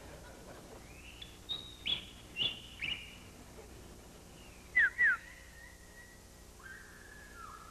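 Cartoon bird chirping and tweeting: a run of short high chirps, then two loud quick downward chirps about five seconds in, and a longer held whistle near the end.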